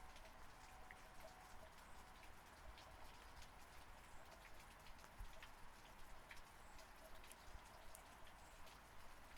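Faint, steady rain, with many individual drops ticking separately.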